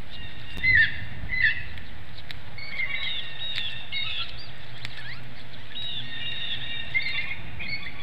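Repeated short, pitched bird calls, the two loudest about a second in, over a steady low rumble.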